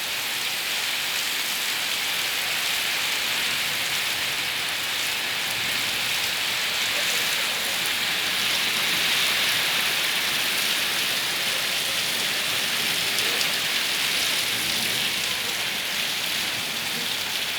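Heavy rain falling in a storm, a dense, even hiss that swells slightly around the middle.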